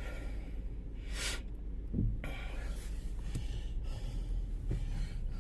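A man's sharp sniff or breath close to the microphone a little over a second in, over a steady low rumble, with a couple of faint knocks.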